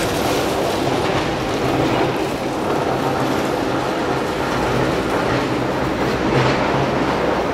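Steady loud rumble and rattle of a moving vehicle, with a low hum underneath.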